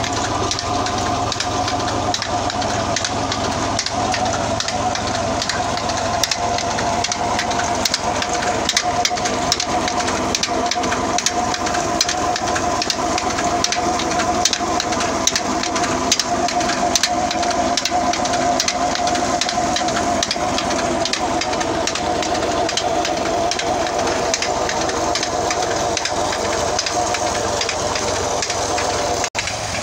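New Holland tractor engine running steadily under load, driving a PTO implement, with a steady hum under a dense crackling rattle.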